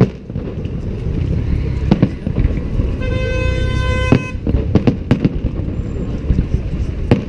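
Fireworks going off in a salute, a series of sharp bangs a second or two apart over a steady low rumble. About three seconds in, a horn sounds one steady note for just over a second.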